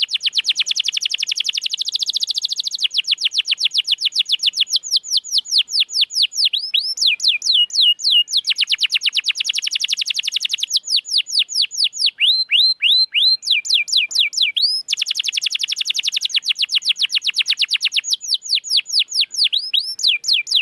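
Domestic canary singing without a break: fast rolling trills alternating with slower runs of repeated down-sweeping whistled notes, a few per second. The song stops abruptly at the very end.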